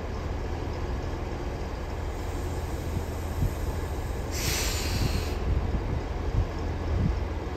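Electric multiple-unit train moving slowly through the station with a steady low rumble, and a brief hiss lasting about a second, four and a half seconds in.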